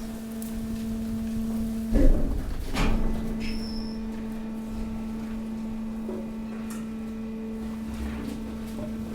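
Hydraulic waste compactor pressing mixed waste: its hydraulic pump hums steadily, with two loud thumps from the waste about two and three seconds in and a brief high squeak just after.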